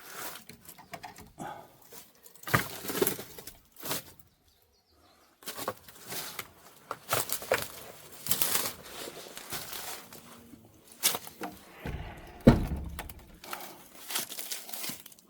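Irregular rustling, crackling and scraping of someone moving about among dry leaves and old household debris, with scattered knocks and one heavy thump about twelve seconds in.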